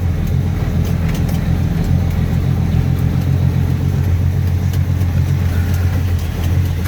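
Rock-hauling truck's engine running at a low, steady drone, heard from inside the cab as the truck crawls slowly along.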